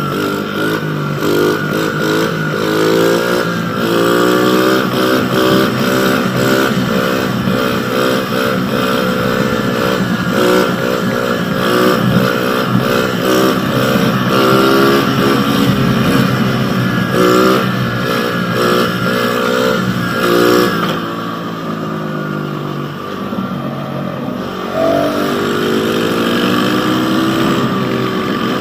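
Pit bike engine being ridden hard, its pitch climbing in quick repeated steps and dropping back over and over as the throttle is worked. About three-quarters through it eases to a lower, quieter run, then climbs again near the end.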